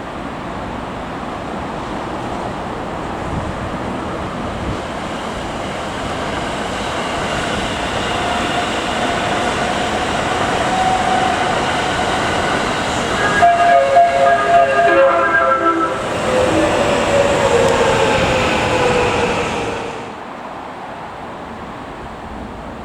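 Electric train running past on the rails, growing louder as it approaches, with a whine whose tones pulse briefly and then slide down in pitch as it goes by. The sound falls away suddenly near the end.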